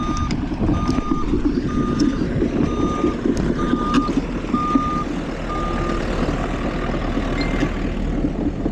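Reversing alarm of a heavy construction machine beeping about once a second over the steady low rumble of its engine; the beeping stops about six seconds in while the engine keeps running.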